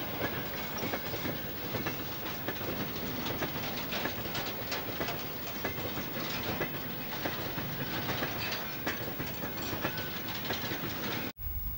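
Freight train wagons rolling past close by, their wheels and running gear making a dense run of clicks and knocks over the rails. Near the end the sound cuts off abruptly and a low rumble follows.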